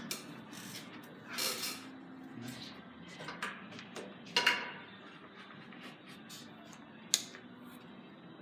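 Carom billiard balls being played: a sharp ball click about four and a half seconds in and another near seven seconds, with lighter knocks in between.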